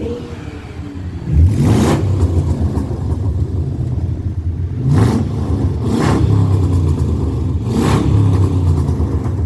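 Low steady rumble of a car, with four louder rushing swells: one about two seconds in, then at about five, six and eight seconds.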